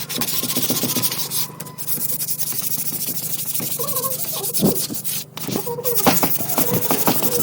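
Hand sanding: quick abrasive rubbing strokes with short pauses, a sign of a finishing step in making the knife.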